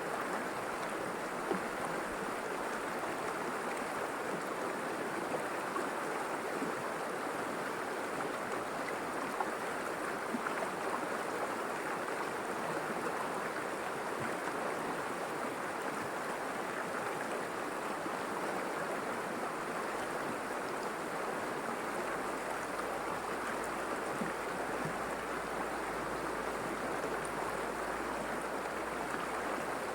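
River water flowing and splashing steadily, an even rushing sound with no break.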